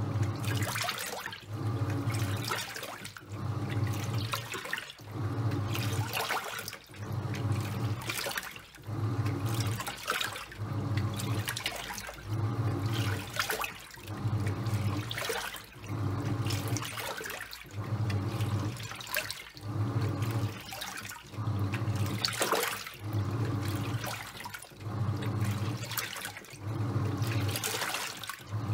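Top-loading washing machine agitating a load of towels: the pulsator motor hums in regular strokes about every second and a half, with water sloshing and churning in the tub.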